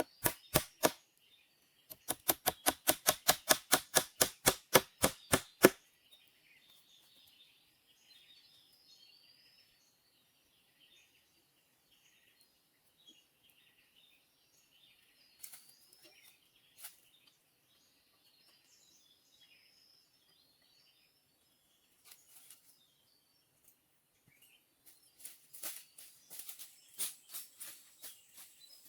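Runs of sharp, evenly spaced knocks, about four a second, that stop about six seconds in. Faint birds chirp after that, and irregular knocks come back near the end.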